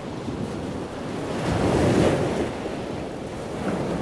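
A rushing, surf-like noise that swells to its loudest about two seconds in and then eases back.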